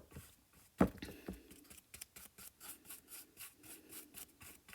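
Paintbrush scrubbing acrylic paint across a canvas in quick repeated strokes, several a second, with a dull knock about a second in.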